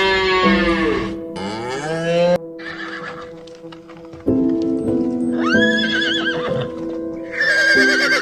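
Horse neighing several times, the later calls high and quavering, over steady background music.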